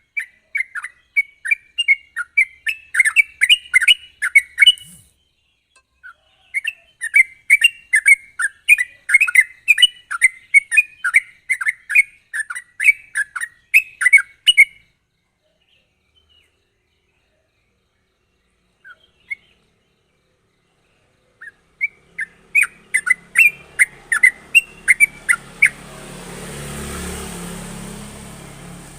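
Yellow-vented bulbul (trucuk) singing a fast, sharp chattering song of rapid notes in long runs, with a pause of several seconds about halfway through. A hiss with a low hum swells up near the end.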